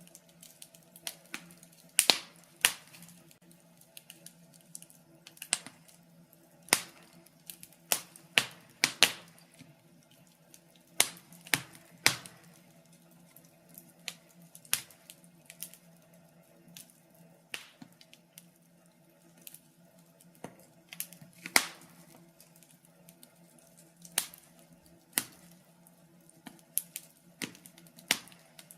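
Wood fire in a fireplace crackling: burning logs give off irregular sharp pops and snaps, a few much louder than the rest. A faint steady low hum runs underneath.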